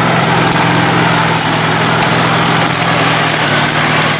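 Lifted riding mower's small engine running steadily at low speed as it creeps along. It is not running right, which the owner puts down to something blown out in the carburetor.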